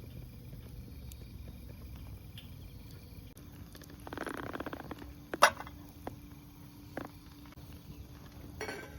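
Small wood stove fire crackling, with a sharp pop about five seconds in and a few smaller ticks after it, over a faint chirping of insects.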